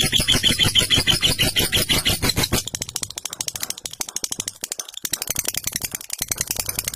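Lovebird giving its long ngekek chatter: a continuous, rapid rattle of harsh, evenly repeated notes, more than ten a second, that softens about halfway through and then builds again.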